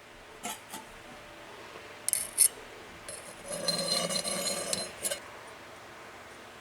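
Metal blade holder clinking and scraping against the steel pipe inside a gas forge as it is slid back into place: a few light clinks, then about two seconds of rattling scrape with a metallic ring, and one last clink.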